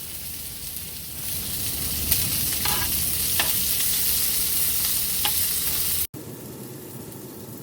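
Food sizzling as it grills, a steady hiss that grows louder about a second in. It cuts off abruptly about six seconds in, leaving a quieter background.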